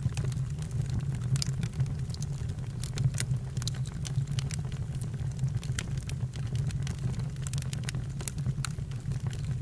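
Campfire crackling: frequent sharp pops and snaps over a steady low rumble.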